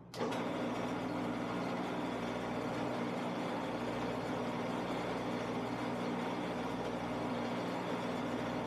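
Shopsmith lathe running steadily: a continuous motor hum with an even hiss over it.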